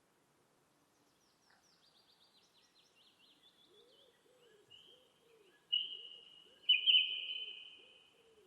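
A small songbird singing: a run of quick, high, falling notes that builds into a loud, steady high trill in the second half and then fades. Fainter, repeated lower calls run underneath.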